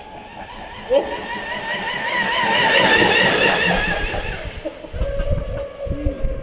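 Pro Boat Miss Geico RC boat's electric motor and propeller whining at full throttle on a 6S LiPo, the pitch wavering as the boat hops. The whine swells to its loudest about three seconds in and fades as the boat runs away, and low wind gusts hit the microphone near the end.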